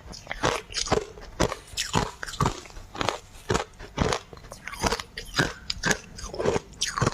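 Close-miked ice being bitten and chewed, sharp crunches about two a second.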